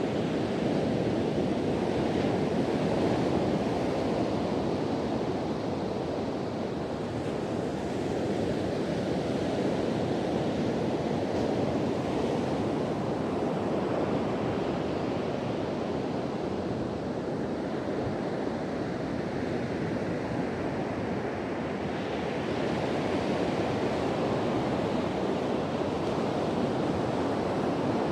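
Sea surf breaking and washing on a beach in a steady rush that swells and eases, with wind blowing across the microphone.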